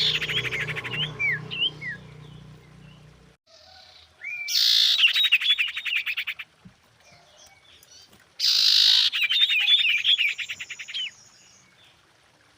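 Female common iora (sirtu) calling: three bouts of quick chirping whistles over a fast rattle, each a couple of seconds long, separated by short pauses.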